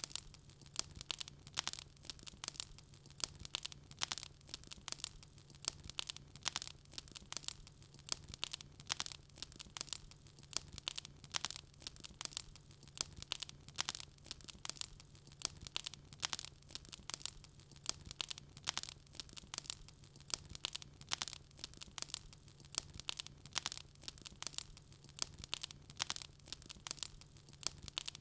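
Wood fire burning in a fireplace, with dense irregular crackles and pops several times a second over a faint steady low hum.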